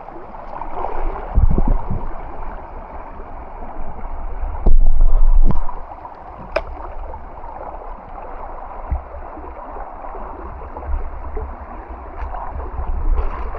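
Flowing stream water making a steady rushing noise, with loud low rumbles about a second and a half in and again around five seconds in.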